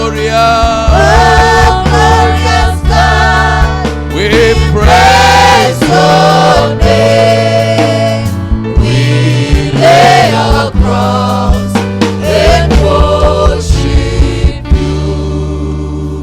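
Gospel worship music: voices singing over a band with steady bass notes and a regular beat. The music fades away near the end.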